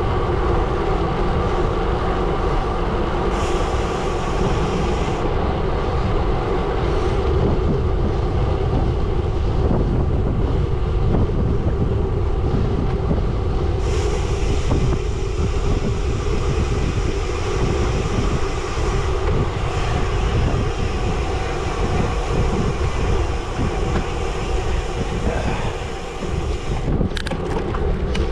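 Gravel bike tyres rolling over a gravel road at speed, a steady rumble with wind noise on the microphone.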